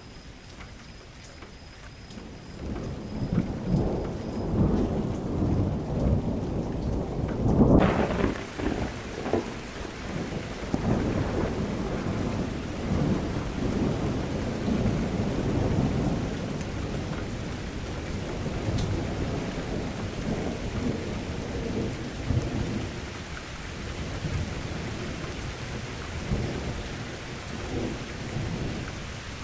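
Thunderstorm sound effect: low rolling thunder rumbling in waves over rain. About eight seconds in, a loud clap comes, and a steady hiss of heavy rain sets in and continues under the rumble.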